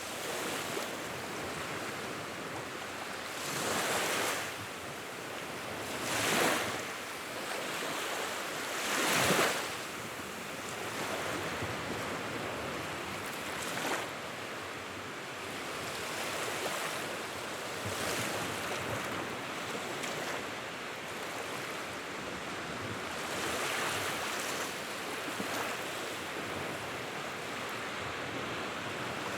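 Wood fire burning in a fireplace: a steady rushing hiss of flames that swells up a few times in the first ten seconds, with occasional sharp crackles and pops later on.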